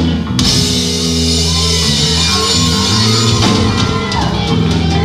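Live rock band playing loudly, with sustained guitar chords, bass and a drum kit whose cymbals come crashing in just after the start.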